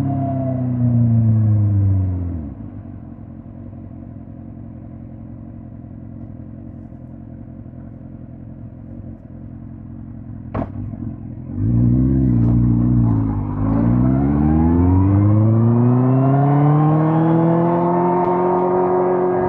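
2005 Suzuki GSX-R1000 K5's inline-four engine dropping in pitch as the bike slows, then idling quietly for several seconds. After a sharp click, the engine revs up, dips briefly at a gear change and climbs steadily in pitch as the bike pulls away and accelerates.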